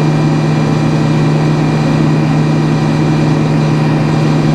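Sawmill's engine running at a steady speed, a constant low hum with no change in pitch or level.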